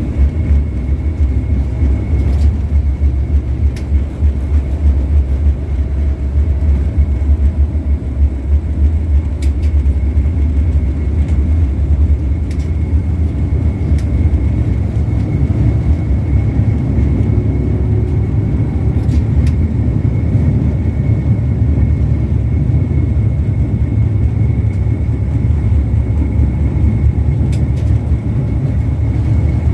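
LVS-86K articulated tram running along the track, heard from inside the passenger saloon: a steady low rumble of wheels and traction motors, with a faint steady high tone and a few light clicks.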